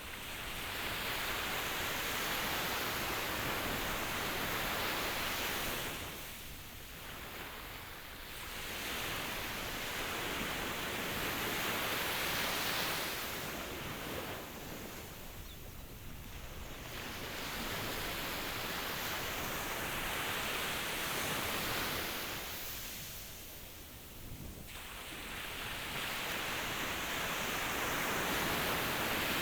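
Ocean waves breaking and washing in, the rushing noise swelling and ebbing in long surges about every eight seconds.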